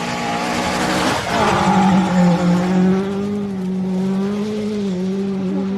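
Rally car at a gravel hairpin: a short burst of tyre and gravel noise about a second in, then the engine held at a steady high note as it drives up the stage.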